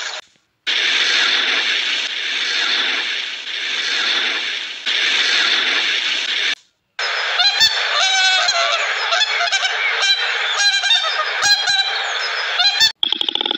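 For about six seconds, steady rushing water. Then a flock of waterfowl honks over and over, goose-like calls coming in quick runs with short breaks.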